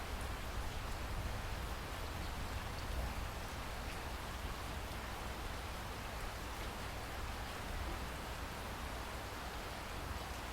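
Steady rain falling on rainforest foliage, a continuous even hiss with scattered drips.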